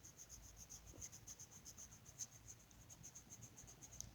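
Faint, quick back-and-forth strokes of a coloring tool on paper, about eight or nine a second, as an area of the picture is filled in.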